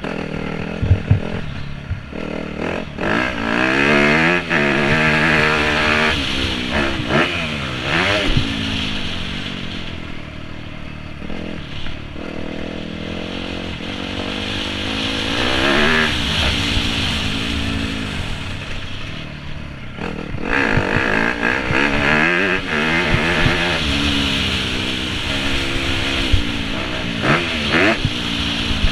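2017 Yamaha YZ250F's four-stroke single-cylinder engine revving up and down over and over as the bike is ridden around a motocross track, heard from on board.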